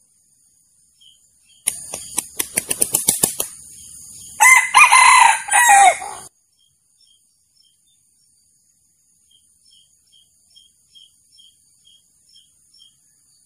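A male junglefowl beats its wings in a quick run of claps, then gives one short crow about a second later. This is the wild cock's territorial crow used as a trapping decoy call.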